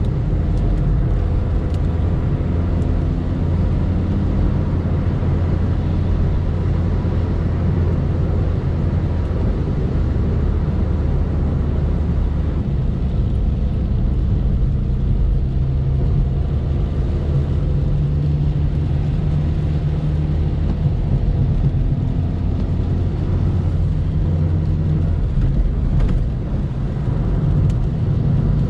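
A car engine running at a steady pace with road noise while driving; the engine note shifts pitch a few times, rising somewhat past the middle.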